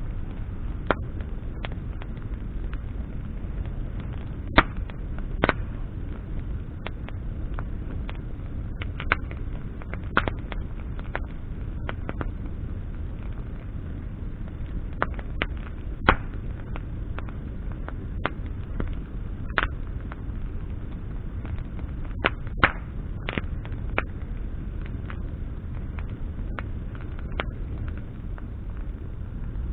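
Wood campfire burning, with irregular sharp crackles and pops of burning branches over a steady low rumble.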